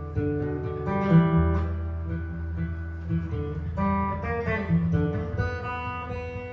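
Jazz guitar improvising: plucked single notes and chords ringing over a low note held underneath, with chords struck about a second in and again near four seconds.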